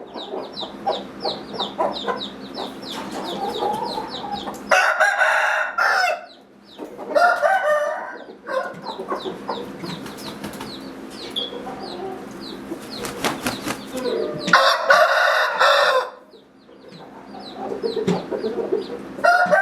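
Game roosters crowing, with long crows about five seconds in and again near the end, and clucking in between.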